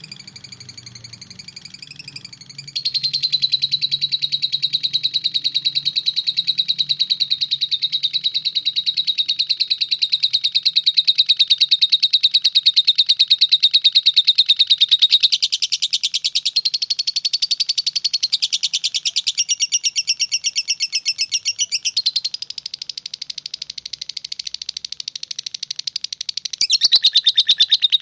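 Lovebird ngekek: a long, unbroken, very rapid high-pitched chattering trill, with a few abrupt changes in loudness where the recording is spliced.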